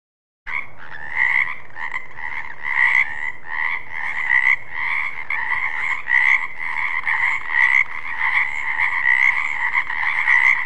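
Frogs croaking in a dense, continuous pulsing call that starts about half a second in and cuts off abruptly at the end.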